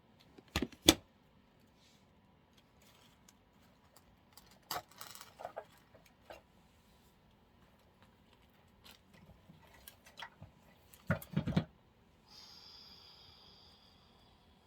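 Handling noise from craft work with artificial flower stems: scattered sharp clicks and taps, a loud pair just under a second in and a quick cluster about eleven seconds in, then a short hissing rustle for about two seconds near the end.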